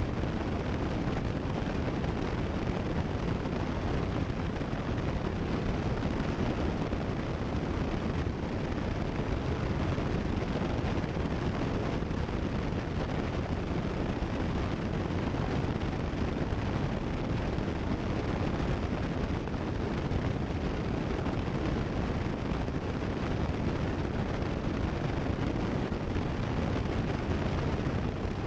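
Cessna 172 Skyhawk in cruise flight: a steady, unchanging drone of engine and propeller mixed with airflow noise.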